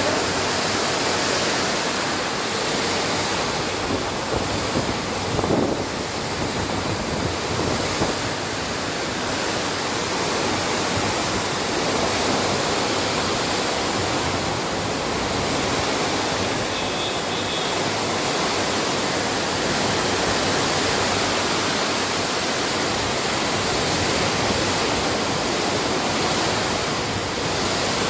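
Heavy rain pouring down in a steady, dense hiss, with a brief louder patch about five seconds in.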